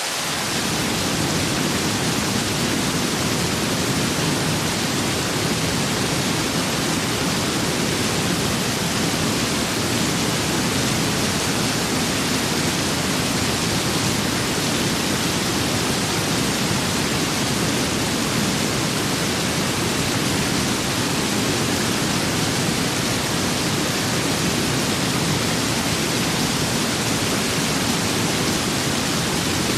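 Rain and wind as a steady, unbroken hiss, even throughout.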